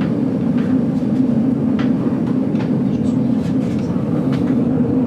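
GoldenPass Belle Époque train carriage running on the metre-gauge line, heard from inside: a steady rolling rumble with a low hum, and light clicks and squeaks now and then from the wheels and carriage.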